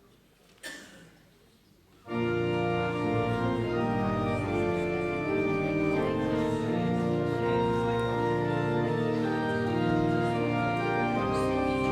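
Church organ begins playing about two seconds in, sustained chords with held notes that shift slowly: the closing voluntary at the end of the service. Just before it, a brief soft noise.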